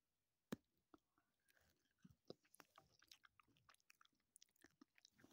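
Faint close-up sounds of a person biting and chewing candy: irregular small mouth clicks, with one sharper bite about half a second in.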